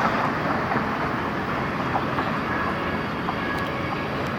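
Steady outdoor background rumble of city and site noise, even throughout with no distinct events.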